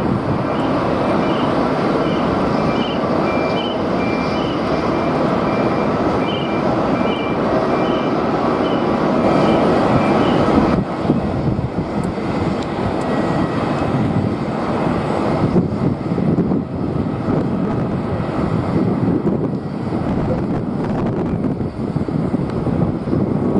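Steady jet airliner engine noise mixed with wind on the microphone. A repeating electronic beep, about one every three-quarters of a second, sounds through the first ten seconds and then stops.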